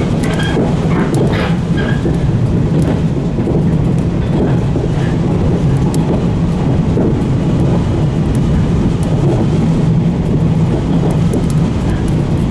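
115 series electric train running along the line, heard from the cab: a steady rumble of wheels on rail, with a few brief high squeaks in the first two seconds.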